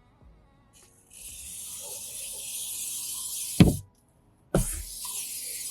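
Aerosol can of OFF! bug spray hissing in two long sprays: one for about three seconds, then after a short pause and a low thump another that carries on to the end.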